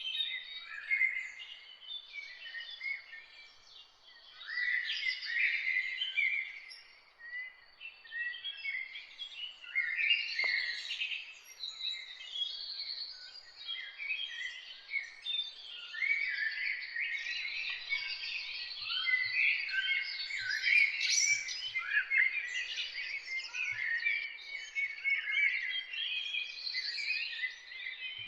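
Several songbirds singing and chirping at once, a dense chorus of quick, overlapping chirps and short sliding notes, with a faint background hiss.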